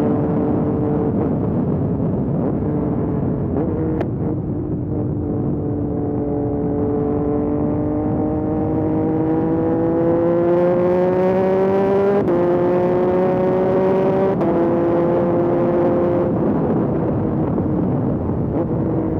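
Yamaha MT-09 SP's inline three-cylinder engine through a Dominator aftermarket exhaust, ridden under acceleration: the revs climb steadily for several seconds, drop sharply twice with upshifts, then fall away as the throttle closes, over steady wind rush.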